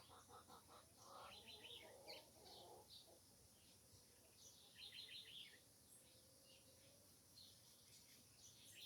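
Red-cowled cardinal and other small birds chirping faintly: short bursts of rapid repeated notes, about a second in and again around five seconds in, over a pulsed run of lower notes in the first second.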